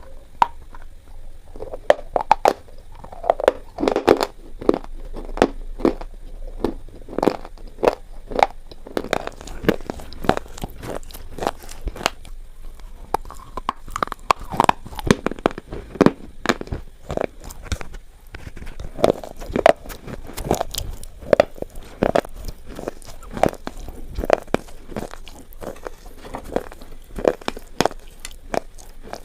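A person biting and chewing slate pencils close to the microphone: a run of sharp, irregular crunches and crackles, a few each second, throughout.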